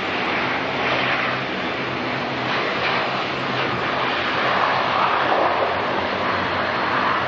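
Jet airliner engines running, a steady loud rush of noise with a low hum underneath.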